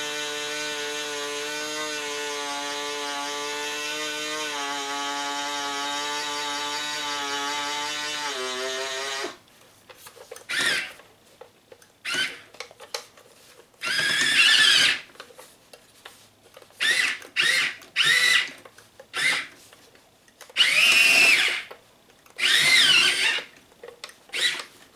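Small electric motor and gearing of a Hobby Engine 1:12 scale RC excavator running with a steady whine for about nine seconds, then cutting off suddenly. After that come a string of short, loud, high-pitched squealing bursts as it is driven in quick spurts. The owner suspects the turntable motor is giving out.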